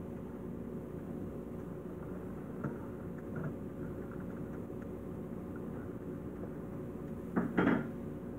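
Refrigerator running with a steady hum, heard from inside the closed fridge, with a brief clatter near the end.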